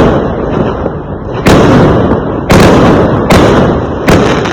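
Fireworks exploding in a rapid series: four sharp, loud bangs about a second apart, each followed by a decaying rumble, with the tail of an earlier bang fading at the start.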